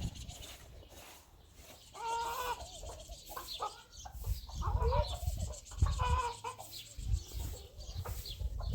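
Chickens clucking, with several short calls a couple of seconds apart.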